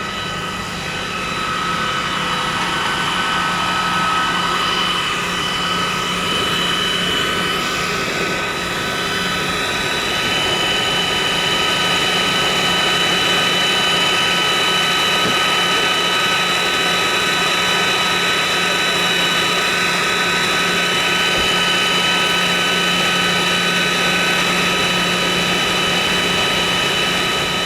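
Steady, loud machine drone with several high, steady whining tones over a dense rushing noise. A faint pulsing tone runs beneath it and stops near the end.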